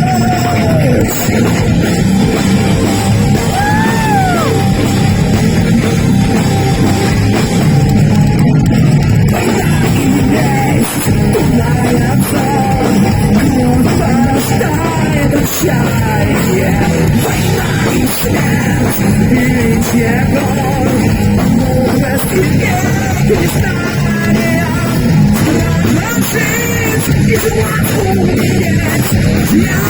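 Heavy metal band playing live and loud, with pitch-bending melodic lines over a dense, steady wall of sound.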